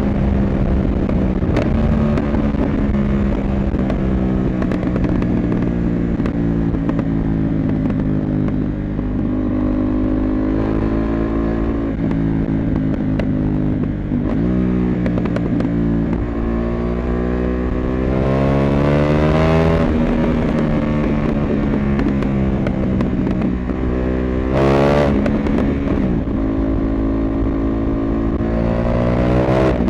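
CFMoto 800MT parallel-twin motorcycle engine under way, the revs rising several times under acceleration and dropping back between gear changes, with a brief rush of noise late on.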